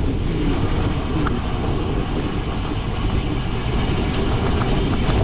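Steady rumbling of a cyclocross bike rolling over rough race-course ground, with wind buffeting the microphone, mostly low-pitched and fluctuating, with a few faint ticks.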